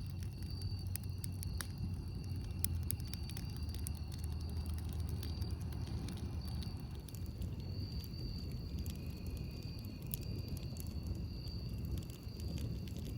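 Campfire crackling, with irregular sharp pops and snaps over a low steady rumble. A thin, steady high tone runs underneath.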